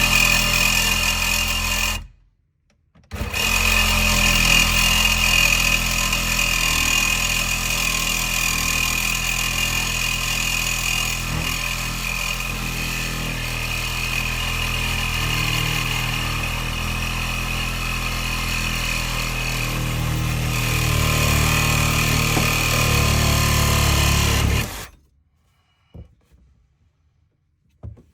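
Power tool running steadily with a constant high whine. It stops about two seconds in, restarts a second later and runs for about twenty more seconds before stopping. A few faint knocks follow.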